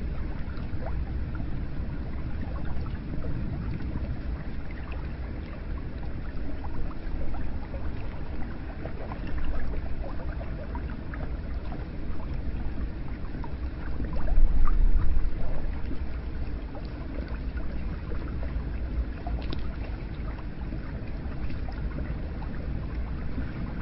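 Hot spring water running and trickling steadily into a bath, with small drips and splashes scattered through it. A low rumble swells for a couple of seconds about midway.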